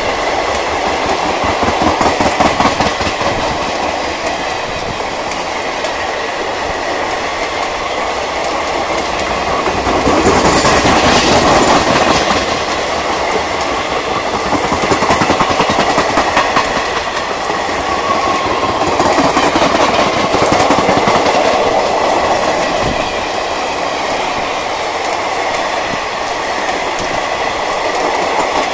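Indian Railways express passenger coaches passing at speed close by: a continuous rush of wheel and rail noise with a rapid clickety-clack of wheels over rail joints, swelling and easing in loudness every few seconds.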